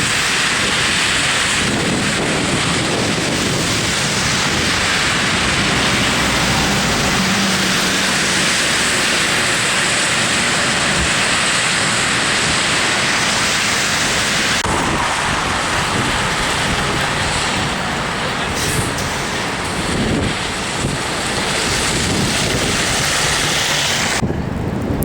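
Storm wind rushing, a loud steady noise with no clear pitch. Its character changes abruptly about fifteen seconds in and again near the end.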